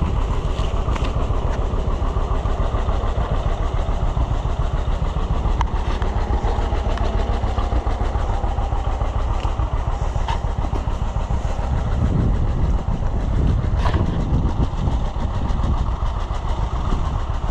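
A vehicle engine running steadily with a continuous low, pulsing rumble, with a couple of brief clicks partway through.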